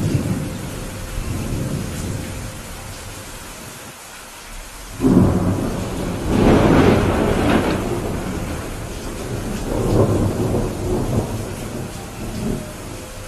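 Steady rain with rolling thunder: a low rumble fades, then about five seconds in a loud thunderclap breaks out and rumbles on, with further rolls of thunder near the end.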